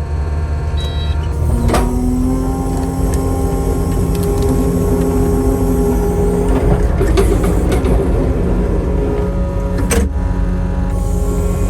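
Chainsaw running steadily at high revs, cutting lengthwise through a log in a chainsaw mill, with a few sharp clicks.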